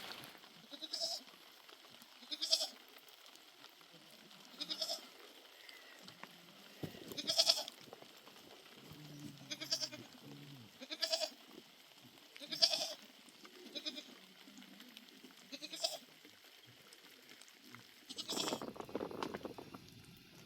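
Livestock bleating: about ten short calls at irregular intervals of one to three seconds, with a longer, rougher sound near the end.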